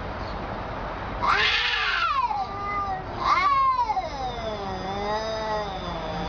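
A cat yowling in long, wavering calls that slide up and down in pitch, with two louder calls starting about a second and three seconds in.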